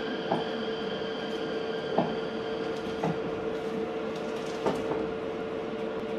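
Meitetsu 4000 series electric train heard from inside the car while running between stations: steady rolling noise with a steady high tone over it, and a few irregular clicks from the wheels.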